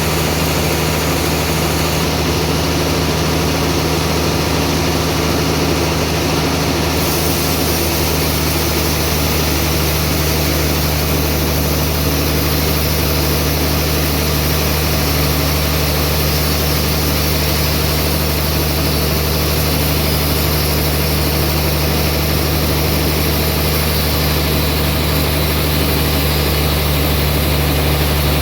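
Band sawmill running with a steady, loud machine drone, its low hum unchanging throughout; the tone shifts slightly about seven seconds in.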